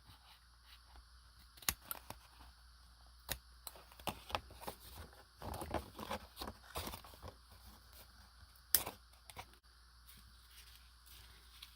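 Paper and small craft items being handled on a table: soft rustling with scattered clicks and taps, busiest a little past the middle.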